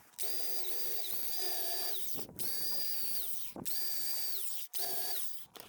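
Handheld electric drill running in four short bursts with brief pauses, each a steady whine whose pitch drops as the trigger is released.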